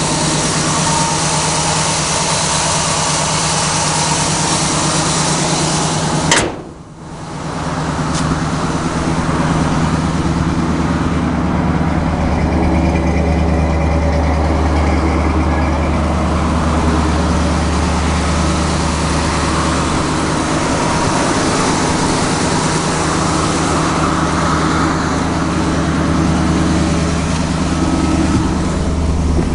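Chevrolet 327 small-block V8 running steadily at an even, loud idle. About six seconds in there is a sharp click and the sound briefly drops away before the engine is heard again at the same steady pace.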